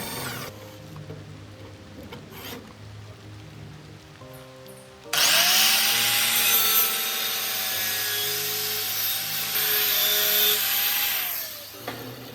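A power tool spins up about five seconds in, runs steadily with a loud abrasive rushing sound, and winds down near the end, its motor pitch rising at the start and dropping as it stops. Soft background music plays underneath.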